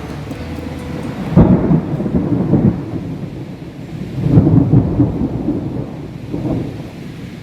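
Thunder rolling overhead: two loud rumbling peaks, about a second and a half in and about four seconds in, then a smaller roll near the end.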